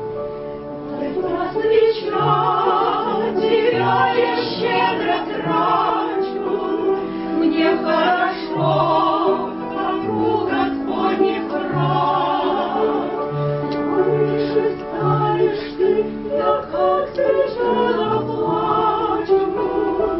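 A woman singing with vibrato over keyboard accompaniment; the keyboard plays alone at first and the voice comes in about two seconds in.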